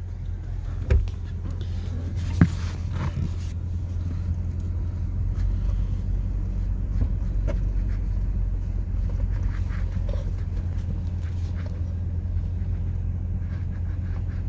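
Steady low rumble of a car moving, heard from inside the cabin, with two short knocks about one and two and a half seconds in.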